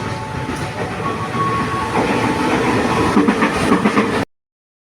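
A train passing close by on the track, its wheels clacking over the rail joints. It grows louder about two seconds in, with a quick run of clacks near the end, then stops abruptly.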